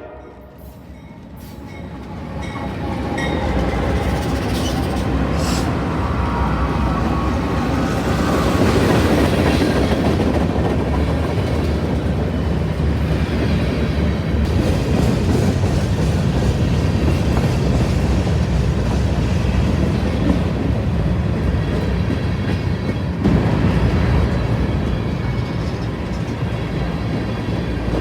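Norfolk Southern freight train passing: the rumble of the locomotives and rolling cars builds over the first few seconds, then runs on steady and loud.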